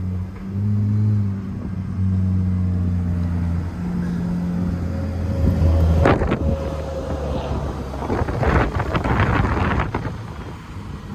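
Car engine running at low revs while driving, its hum stepping up and down in pitch a few times. From about six seconds in, a louder, rougher rush of engine and exhaust noise comes in with a sharp crack, then dies back near the end.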